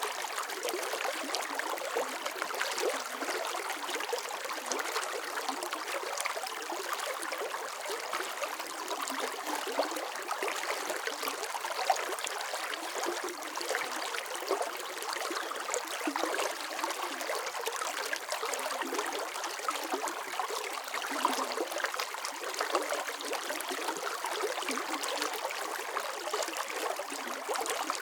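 Running water flowing and trickling in a steady, even stream, with small splashes and gurgles and no deep rumble.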